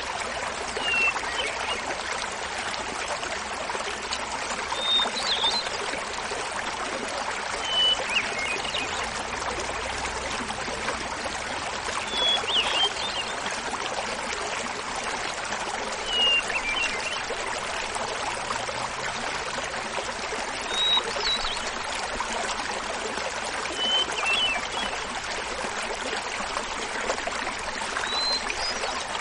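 A small mountain waterfall splashing steadily while a hermit thrush sings eight short, high, flute-like phrases about every four seconds. The phrases alternate between a lower and a higher pitch.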